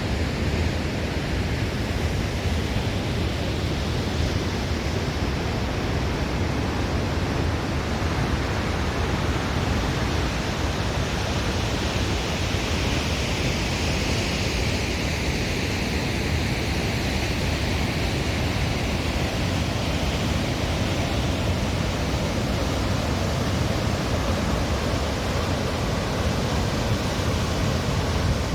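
Aharbal Falls, a large waterfall, with water falling in a steady, even rush of noise.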